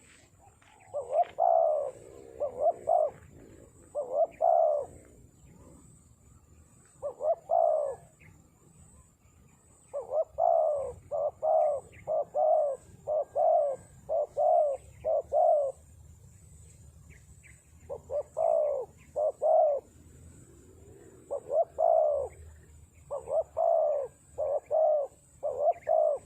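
Spotted dove (terkukur) cooing in a series of phrases made of short, quickly repeated coos, with pauses of a second or two between phrases. The longest run, about halfway in, holds around ten coos.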